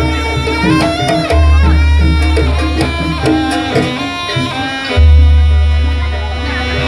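Traditional Banyuwangi Jaranan Buto ensemble music: a high wavering melody over busy hand drumming, with deep booming low notes coming in twice.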